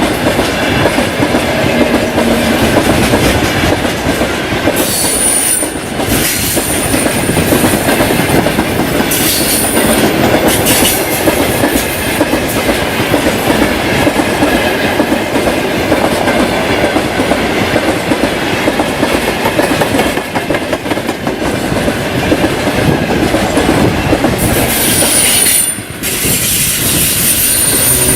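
Freight train wagons rolling past at speed: a continuous loud clatter of steel wheels on the rails, with a brief high-pitched wheel squeal a few times.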